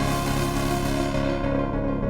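Prophet Rev2 polyphonic synthesizer playing a sustained ambient pad chord, its high overtones bright at first and fading away near the end.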